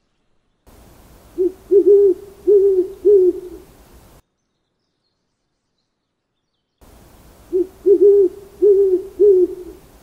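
Owl hooting: a phrase of about five deep hoots, one short, then a quick double, then two more, heard twice about six seconds apart, the second phrase the same as the first.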